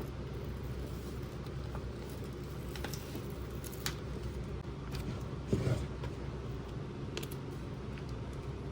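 Small plastic toy pieces and packaging being handled: a few light clicks and taps, with one louder knock about five and a half seconds in, over a steady low hum.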